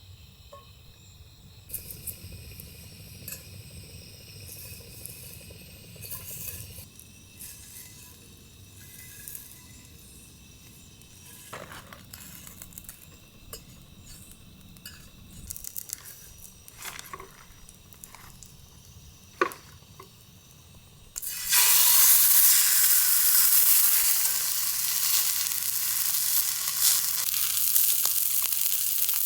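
Scattered light clicks and knocks of cookware being handled, then, about three-quarters of the way through, a sudden loud sizzle as steak goes into a hot pan and keeps searing steadily.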